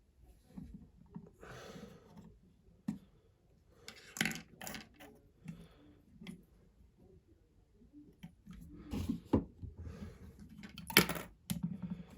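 Lego plastic pieces being handled and pressed together: scattered small clicks and knocks with soft handling rustle, the sharpest click about eleven seconds in.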